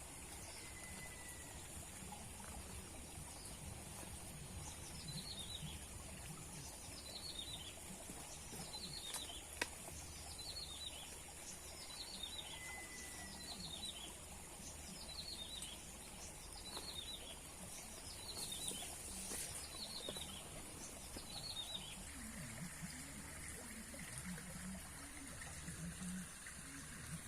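A bird calling: a run of about a dozen short, high, falling notes, one every second and a half or so, starting about five seconds in and stopping a few seconds before the end. Under it is a steady hiss of water.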